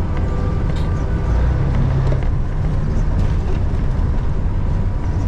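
Cab of a Freightliner FLD120 with a Cat 3406E diesel engine at highway cruise: the engine and road noise make a steady low drone. A faint horn sounds from another vehicle about the first second.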